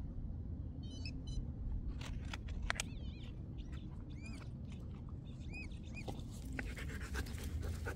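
Quiet outdoor ambience with a low rumble. A few short, arching bird chirps come a few seconds in, and there are scattered light clicks and scrapes from soil being dug and handled.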